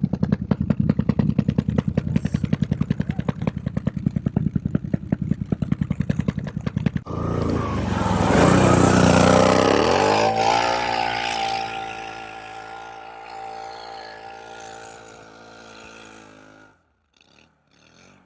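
Vehicle engine running with a rapid, even pulsing. About seven seconds in it changes abruptly to a louder rev that drops in pitch, then holds a steady tone while fading, and cuts off shortly before the end.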